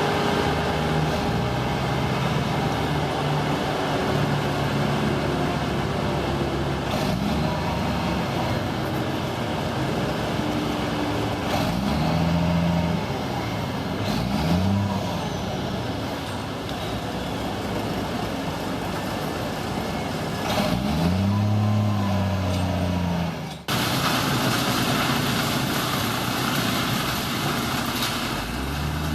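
An engine running steadily and revving up and down several times, with a brief break near the end.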